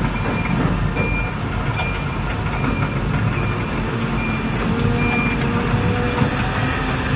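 Backup alarm on heavy construction equipment beeping steadily, a short high beep a little more than once a second, over the low rumble of diesel engines. About four seconds in, a steady engine tone comes in as a machine works.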